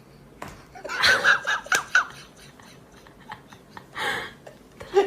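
High-pitched laughter: a quick run of about five "ha" bursts about a second in, then a couple of softer laughs or vocal sounds near the end.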